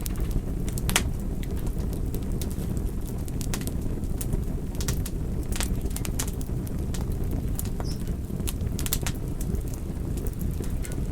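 Wood fire crackling: irregular sharp pops and snaps, a few every second, over a steady low rumble of the burning fire.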